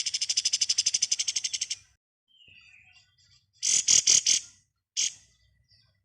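Kapas tembak bird singing in its rapid 'ngebren' style: a fast rattling trill of high notes, about fifteen a second, that stops after nearly two seconds. After a pause come a short chirp and then a few loud, sharp notes about four seconds in.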